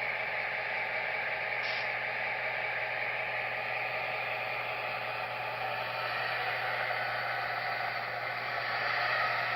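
Model diesel locomotive running on the track, giving a steady mechanical hum with a hiss over it.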